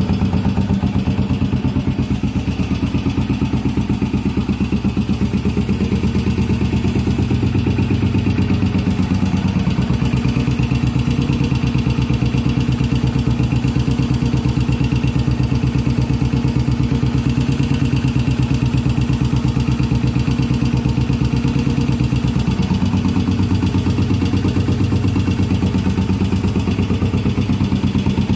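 Yamaha SR500's single-cylinder four-stroke engine idling roughly, its firing pulses steady, with the tone shifting slightly about ten seconds in and again near the end.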